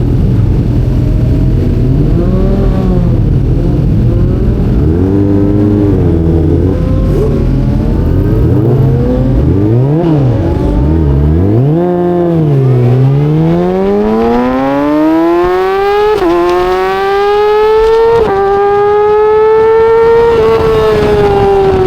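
Yamaha R6 inline-four sport bike engine, its revs rising and falling repeatedly, then pulling hard in a long climb with two sudden drops as it shifts up twice, and easing off near the end.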